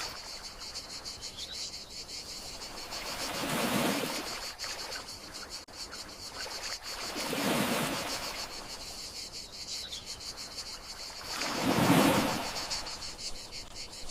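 Gentle sea waves washing in about every four seconds, three swells in all, under a steady high chirring of crickets.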